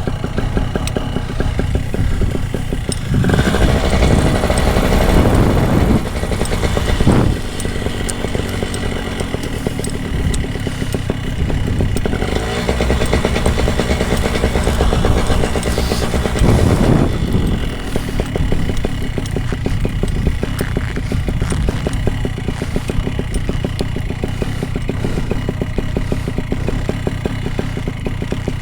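Paramotor engine running at idle, rising in level for a few seconds twice, about three seconds in and again around the middle.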